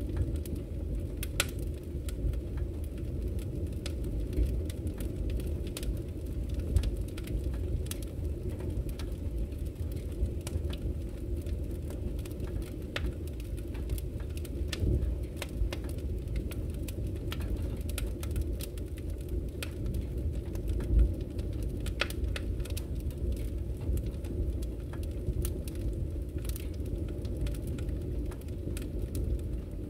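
Wood fire crackling in a fireplace: a steady low rumble of the flames with irregular sharp crackles and pops throughout, one louder pop about twenty seconds in.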